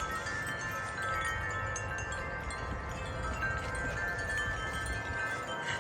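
Wind chimes ringing in a gust of wind, struck again and again so that many overlapping tones hang and blend together, over a low rumble of wind.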